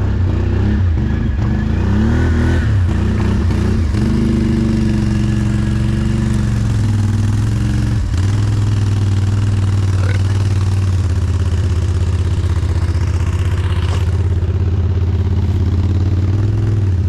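ATV engine running at low revs, its pitch wavering up and down for the first few seconds, then holding steady. A single knock about eight seconds in.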